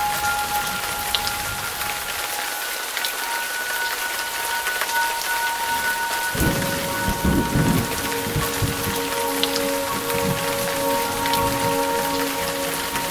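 Steady heavy rain falling and splashing on surfaces, with a low rumble of thunder about six seconds in that lasts a second or two.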